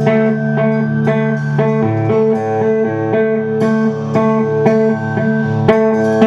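A rock trio playing live with electric guitar, bass guitar and drums: a repeating pattern of held and picked guitar notes over the bass, with regular drum and cymbal hits and no vocals.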